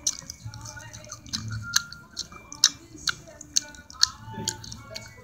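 A person chewing food close to the microphone, with many sharp mouth clicks.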